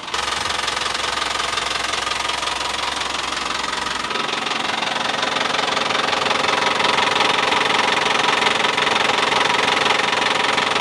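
Isuzu Traga diesel engine running steadily with the usual diesel clatter. A low hum underneath drops out about four seconds in.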